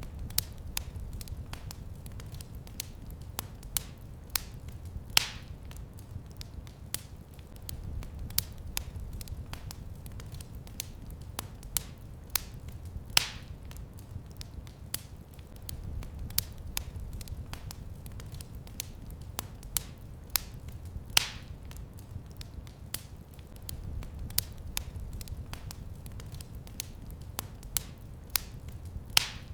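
Wood fire crackling in a fireplace: a steady stream of small sharp pops over a low rumble of the flames, with four louder snaps spaced about eight seconds apart.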